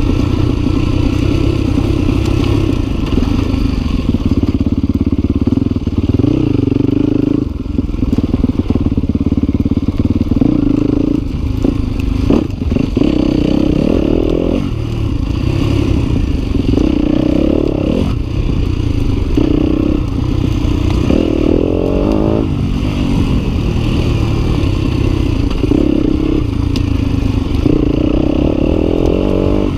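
Yamaha WR250F's single-cylinder four-stroke engine revving up and down over and over as it is ridden, with frequent knocks and rattles from the bike.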